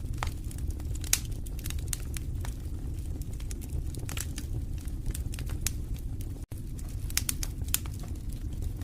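Wood fire in a fireplace crackling, with irregular sharp pops and snaps over a steady low rumble of flames. The sound drops out for an instant about six and a half seconds in.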